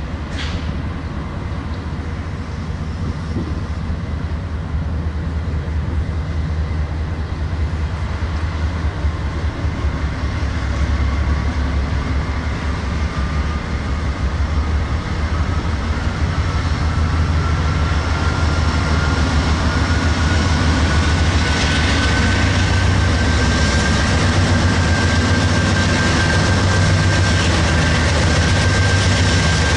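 Train running, a steady low rumble that grows gradually louder, with a thin whine that slowly rises in pitch and then holds steady.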